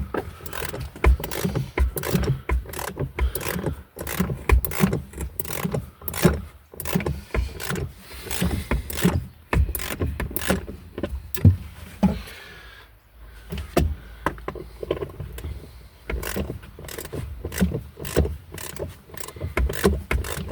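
Hand socket ratchet clicking in irregular runs, with knocks of the tool, as seat mounting bolts are worked loose. There is a short lull about two-thirds of the way through.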